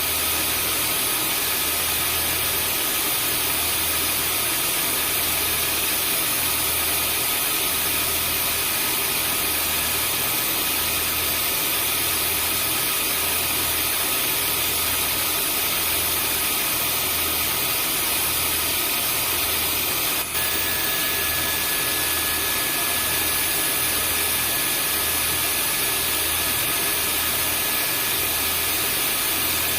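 Vacuum cleaner motor running steadily, a dense rushing noise with a high whine over a low hum that throbs about once a second. About two-thirds of the way through there is a brief dropout, after which a new whine tone joins in.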